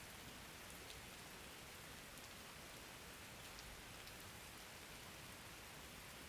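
Faint, steady rain: an even hiss of rainfall with a few light drop ticks.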